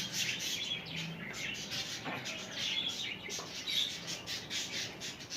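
A flock of budgerigars chirping and chattering, many short high chirps overlapping.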